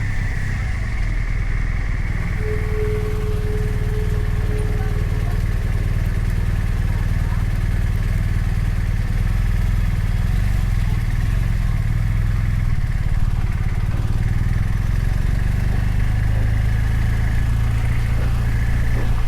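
BMW R 1250 RT's boxer-twin engine running steadily at low revs, with no revving. A short, steady tone sounds a few seconds in.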